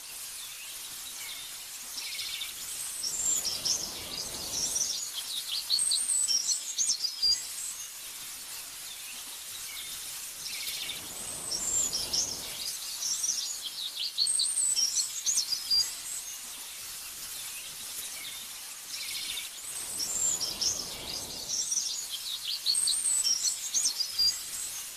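Small birds singing in bursts of high, rapid chirps and trills that return about every eight seconds, over a soft steady hiss that swells with each burst.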